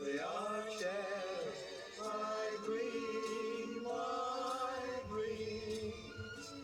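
Music playing from a record on a vintage record player: long held notes that waver and glide in pitch, with no clear words.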